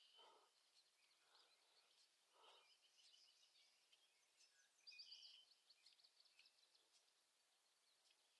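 Near silence outdoors, with faint bird chirps and trills, a little louder about three and five seconds in.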